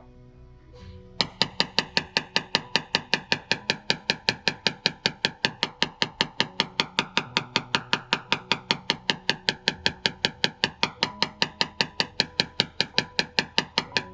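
A rapid, evenly spaced series of sharp taps, between four and five a second, starting about a second in, over background music.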